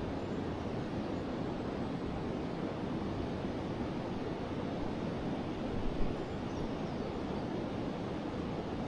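A forest river flowing, a steady rush of moving water. There is a brief louder splash or knock about six seconds in.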